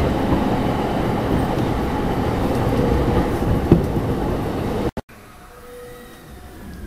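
Running noise of a JR East E231 series 500 Yamanote Line commuter train heard from inside the car at speed: a loud, steady rumble of wheels on rail, with a single sharp clack near the end of it. About five seconds in it cuts off abruptly to much quieter station ambience with a faint falling whine.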